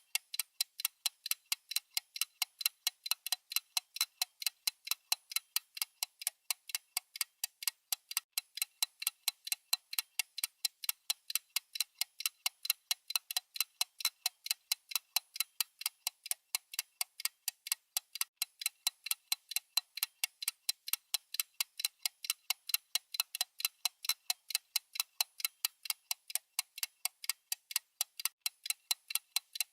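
Clock-style ticking sound of a countdown timer: a fast, perfectly even run of crisp, high ticks.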